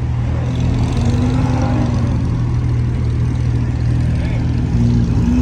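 Car engine running at low revs, a steady low drone.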